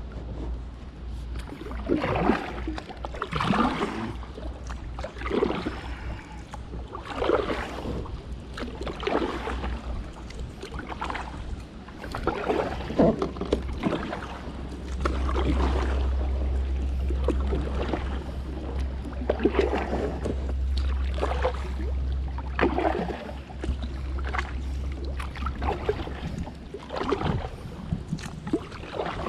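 Kayak paddle strokes dipping and splashing in the water, one about every second or two, over a low wind rumble on the microphone.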